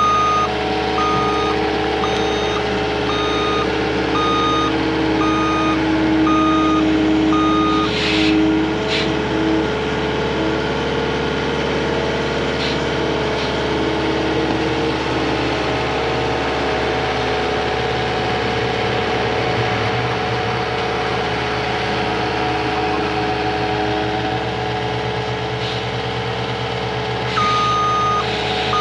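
CAT 259D compact track loader running steadily with its hydraulic brush cutter attachment engaged, its reversing alarm beeping evenly, about one and a half beeps a second, for the first eight seconds and again near the end. A couple of sharp cracks come about eight seconds in.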